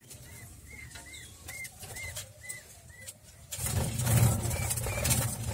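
A small bird peeping in an even series of short, clear calls, about two a second. From about halfway through, a louder low rumble comes in and mostly covers the calls.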